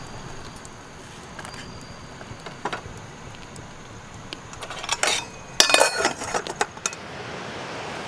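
Tableware clinking during a meal: scattered light taps, then a quick run of louder clinks of utensils against dishes about five to seven seconds in.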